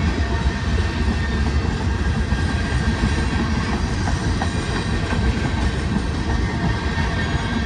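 Union Pacific manifest freight train rolling past, a steady, loud rumble and rattle of the cars on the rails.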